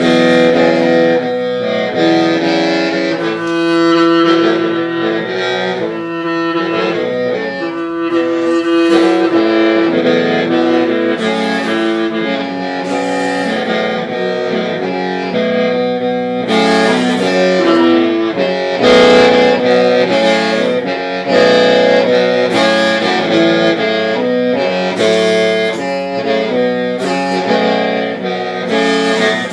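Hmong qeej, a free-reed bamboo mouth organ (lusheng), playing a melody. Several reed tones sound together over a steady low drone, shifting pitch in quick steps.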